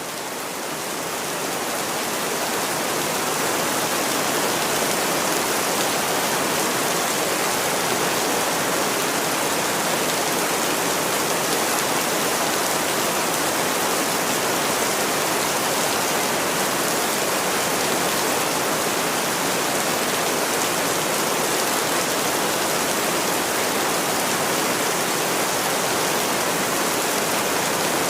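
Steady rain, an even hiss that fades up over the first few seconds and then holds level.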